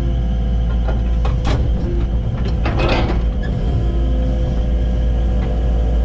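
Excavator's diesel engine running steadily under work, with a few short scraping knocks about one and three seconds in from the bucket working earth and rock.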